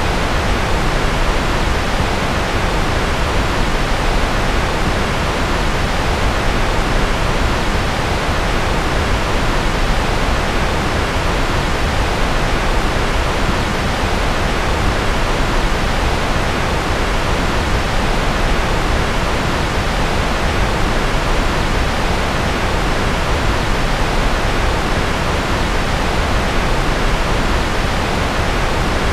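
Steady generated noise of the kind sold as white noise for focus: an even, unchanging hiss, fuller in the low end than the high, with no other sounds.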